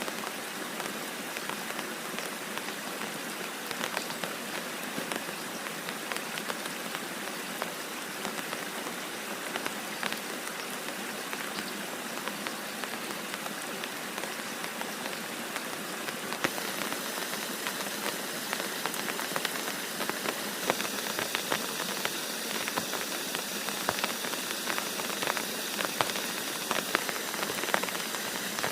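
Heavy rain falling steadily, with many sharp raindrop ticks on top; the patter grows denser and louder in the second half.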